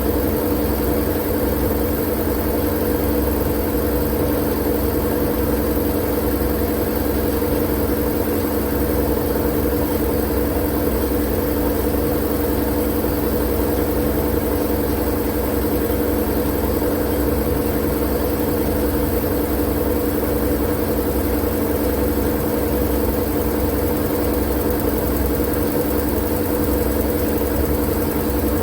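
Continuous sleep-aid noise track: a steady, unchanging hiss with a low hum and rumble beneath it, with no starts, stops or changes.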